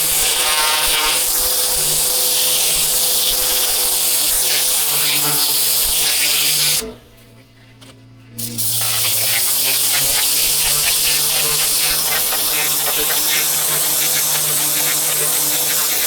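Pressure washer running and spraying: a steady, loud buzzing hiss with a hum under it. About seven seconds in the spray cuts out for about a second and a half, leaving only a faint low hum, then starts again.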